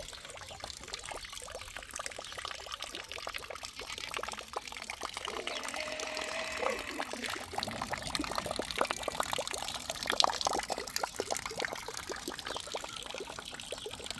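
Water pouring and splashing steadily, with many small sharp drips and patters; it gets a little louder about halfway through.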